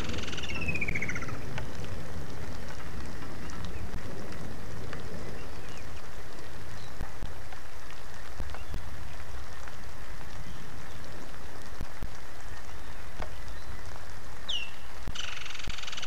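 Steady rain falling. A bird calls with a falling trill in the first second, and again near the end, where a short falling whistle comes just before the trill.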